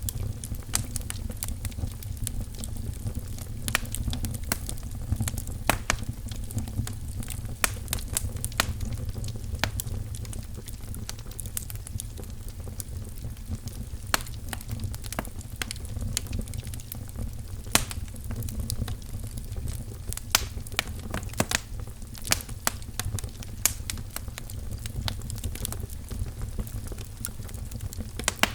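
Wood fire crackling in a fireplace: a steady low rumble with irregular sharp pops and snaps throughout.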